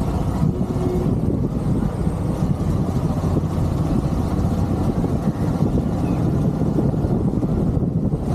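Motorcycle riding on the road: the engine and the rush of wind on the microphone make a steady low rumble.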